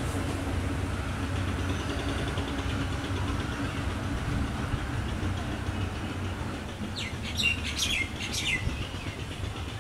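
Steady low rumble of a long passenger train, hauled by an EMD GT42AC diesel locomotive, rolling away; the drone fades over the first few seconds. A bird chirps several times in quick succession near the end.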